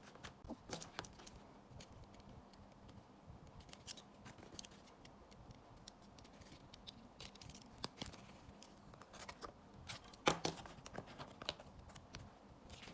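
Scissors snipping, with scattered small clicks and rustles of packaging being opened and handled.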